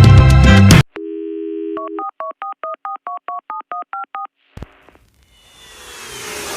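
Music stops abruptly, then a telephone dial tone sounds for about a second, followed by a quick run of about a dozen touch-tone (DTMF) dialing beeps. A click follows, then a rising whoosh that swells near the end.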